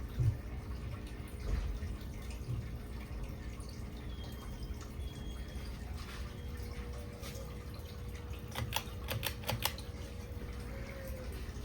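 Hampton Bay Glendale ceiling fan running with a low rumble and a faint steady hum, which its owner puts down to a bad capacitor. Partway through there is a quick run of five or six sharp clicks.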